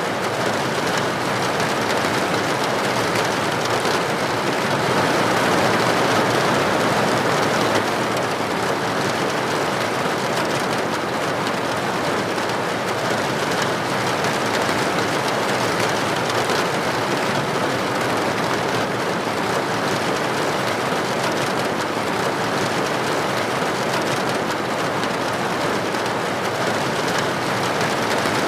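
Steady, dense rain falling on a window or roof, an even hiss of many drops with no let-up, swelling slightly a few seconds in.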